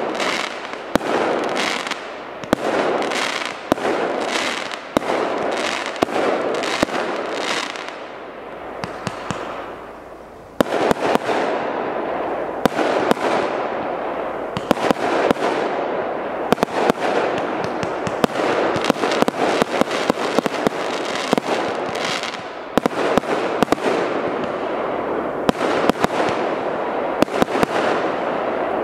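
Consumer firework battery firing a rapid series of shots and crackling bursts. The shots thin out and fade from about eight seconds in, then start again abruptly and louder about ten and a half seconds in and keep going densely.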